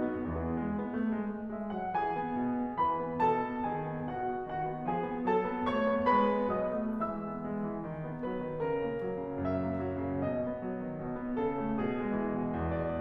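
Solo piano playing classical music: a continuous flow of notes, with chords in the bass under a moving melody.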